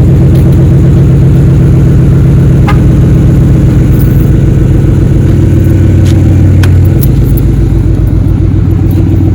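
Dodge Charger R/T's 5.7-litre Hemi V8 idling loud and steady through its exhaust, a few seconds after a cold start, with a couple of faint clicks. The low rumble eases slightly about seven seconds in.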